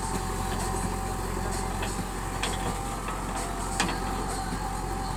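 JCB 3DX Super backhoe loader's diesel engine running steadily, with a few short sharp knocks over it.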